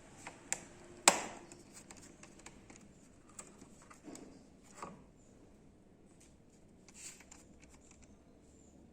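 Clicks and knocks of a screwdriver and loose parts being handled while screws are taken out of a monitor's housing, with one sharp knock about a second in, louder than the rest.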